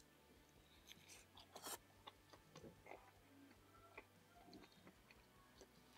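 Faint chewing of a bite of crispy chicken-crust pizza: soft, scattered crunches and mouth clicks, the loudest a little under two seconds in.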